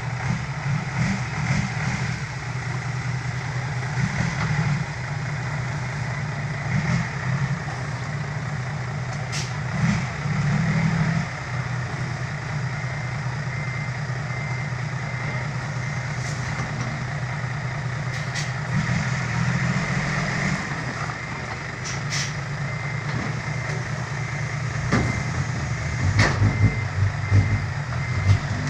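Six-wheel dump truck's diesel engine running steadily, with a few sharp knocks and a repeated beeping in the last few seconds.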